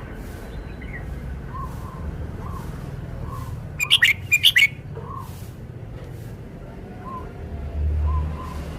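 Red-whiskered bulbul singing a quick burst of several loud, high notes about four seconds in.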